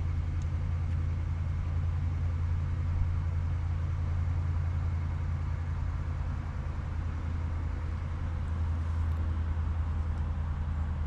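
A steady low mechanical drone, like a motor running at a constant speed.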